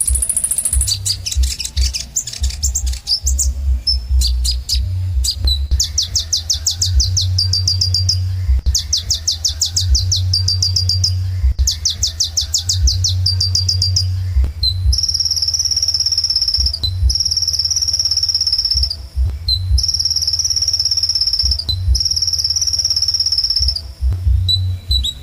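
Kolibri ninja sunbird singing: repeated fast, high trills of quick descending notes, each phrase about two seconds long. About halfway through the song changes to four long, thin, high whistled notes with short chips between them. A steady low hum runs underneath.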